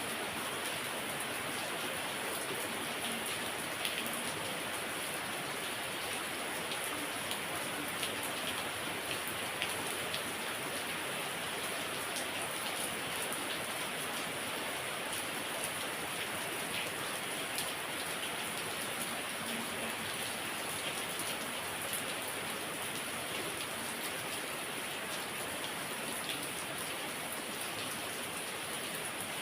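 Heavy rain falling steadily, with scattered sharper drop ticks among the constant hiss.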